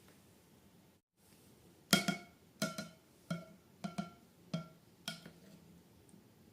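A run of about seven identical ringing notes at the same pitch, struck or plucked about every 0.6 s, starting about two seconds in after a brief dropout in the sound.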